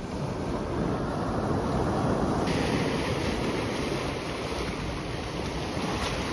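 Sea waves washing onto the shore: a steady rush of surf that swells over the first couple of seconds, its hiss growing brighter suddenly about halfway through.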